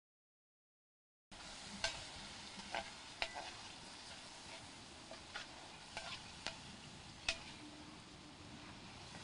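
Mutton frying in a kadai, sizzling steadily, while a metal spatula stirs it and clinks and scrapes against the pan about seven times. The sound starts about a second in.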